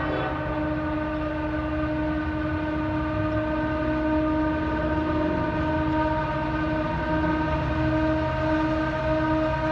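Approaching Norfolk Southern freight train's EMD diesel locomotives working hard under load: a steady, unbroken howl from the turbochargers over a low engine rumble.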